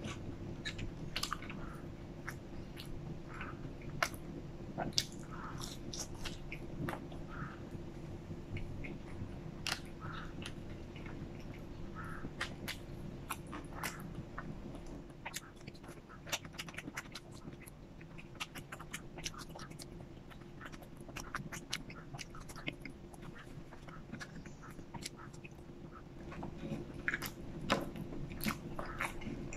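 Close-miked chewing of McDonald's french fries: soft mouth clicks and smacks in irregular quick succession.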